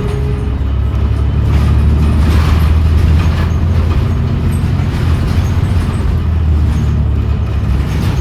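A 2017 New Flyer XDE40 diesel-electric hybrid bus under way, heard from inside: its drivetrain gives a loud, steady low drone, mixed with road noise and rattles that swell briefly about two seconds in.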